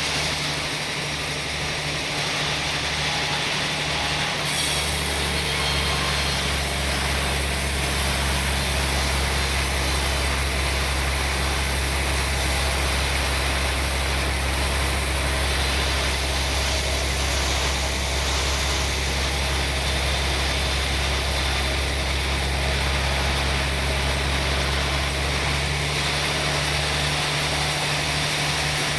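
Sawmill machinery running with a steady engine hum. About four seconds in, the low hum fills out and a high hiss joins it; near the end the hum thins again.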